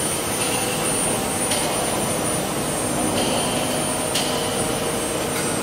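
CNC wood lathe making a finishing pass, its spindle running a 6 mm ball-nose cutter through the wood in a steady whir. A higher-pitched cutting tone comes and goes about every second and a half.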